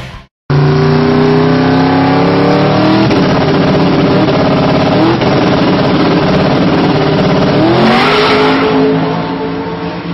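Twin-turbo 427 V8 in a Toyota Supra accelerating hard under full throttle. The engine note climbs in pitch, drops back at gear changes about 3 and 5 seconds in, then climbs again near 8 seconds before easing off toward the end.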